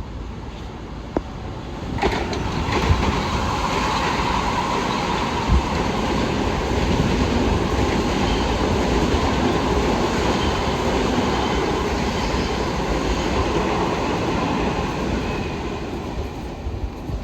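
A Long Island Rail Road train running past the platform, with a steady rumble of wheels on rail and sharp clicks over the rail joints. It builds up about two seconds in and fades near the end.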